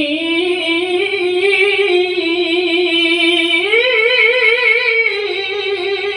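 A Qur'an reciter holding one long, ornamented melodic note of tilawah, the voice wavering in a quick vibrato. The pitch steps up a little past halfway and comes back down near the end.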